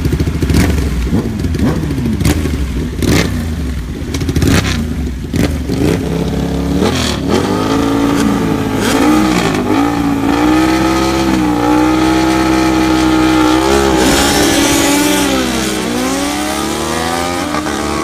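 Superbike engines revving hard, with sharp pops and cracks over rising and falling engine notes for the first several seconds. Then one engine note climbs, holds steady and dips twice before rising again.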